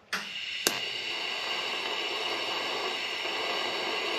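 TIG welding arc on stainless steel exhaust tubing: it strikes abruptly with a sharp crack, then holds a steady hiss with a faint high whine.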